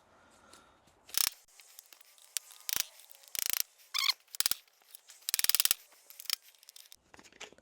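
Short rasping strokes of a hand file on the steel U-joint yoke, about eight in all with gaps between, deburring the metal.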